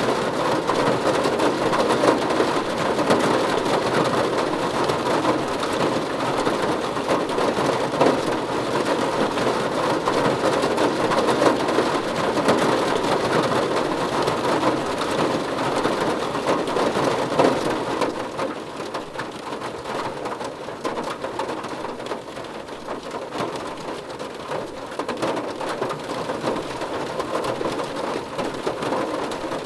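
Steady heavy rain, a dense patter of drops falling on a surface, easing slightly about two-thirds of the way through.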